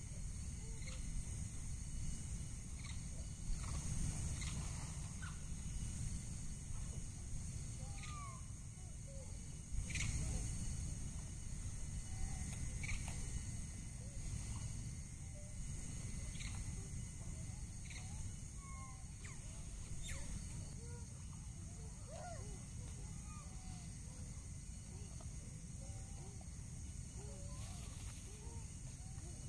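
Forest ambience: a steady high-pitched drone of wild creatures with many short scattered chirping calls and a few light knocks.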